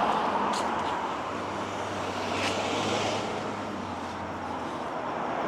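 Road traffic passing: a steady rush of car tyre and engine noise that eases midway and builds again near the end.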